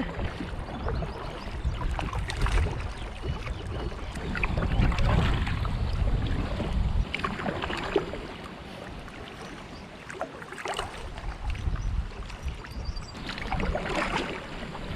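Kayak paddle blades dipping and splashing in the water every few seconds, with wind buffeting the microphone in a low rumble that rises and falls.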